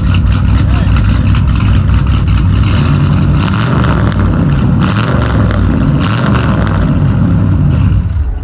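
Car engine idling loudly with an uneven, choppy lope, the typical sound of an aggressive performance camshaft.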